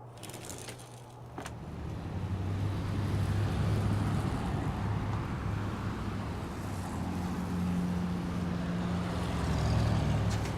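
A car engine running, growing louder over the first few seconds and then holding steady, with a few light clicks near the start.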